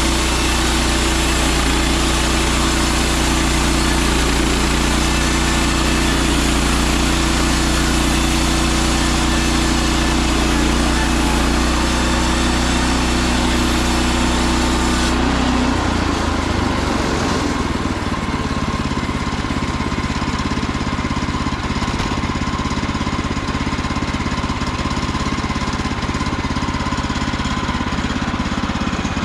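Gas engine of a Woodland Mills HM130MAX portable band sawmill running steadily under way with its band blade. About halfway through the sound changes sharply: the engine's tone shifts and the high hiss drops away.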